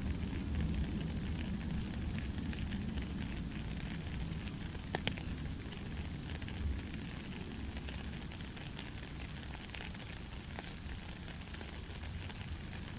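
Steady white noise for lulling a baby to sleep: an even hiss with a low rumble underneath and a few faint crackling clicks, the clearest about five seconds in.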